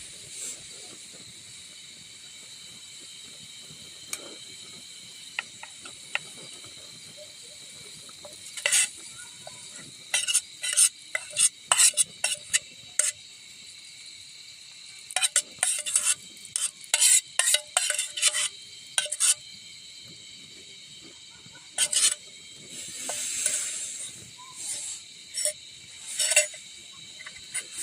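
A metal spoon stirring and scraping in a cooking pot, giving bursts of quick clinks between pauses, over a steady high hiss.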